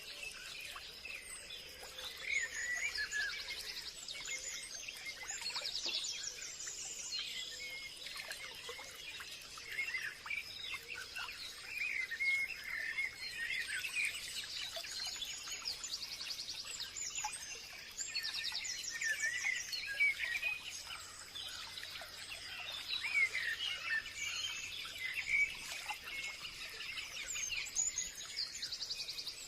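Forest ambience: many birds calling and chirping over one another in short whistles and trills, over a steady high-pitched hum.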